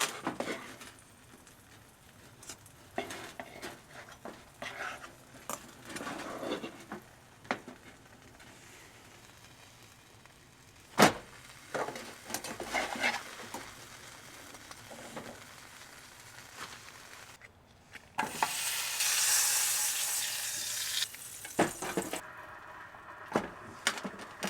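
Food frying in butter in a pan, sizzling, with scattered clicks and knocks from the pan and utensils being handled. About eighteen seconds in, the sizzle flares up loudly for a few seconds before dying back.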